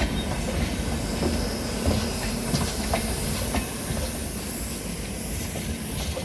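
Train coaches rolling past, wheels clicking irregularly over rail joints over a steady rumble and hiss.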